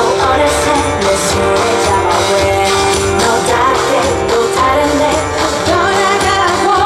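Live pop song: a woman singing into a microphone over a loud amplified instrumental backing with a steady beat.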